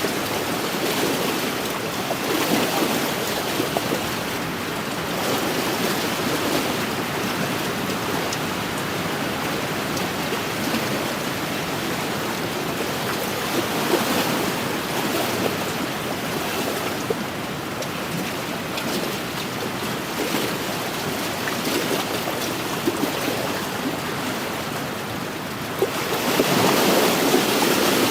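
Wind-driven waves washing against a lakeshore, with wind blowing steadily; the wash swells louder near the end.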